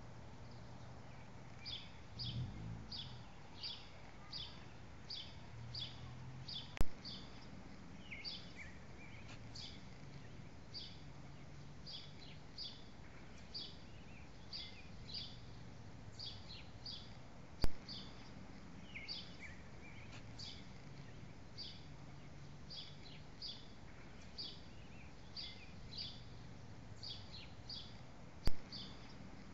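Small birds chirping over and over in quick, high notes above a faint low rumble. Three sharp clicks stand out, about eleven seconds apart.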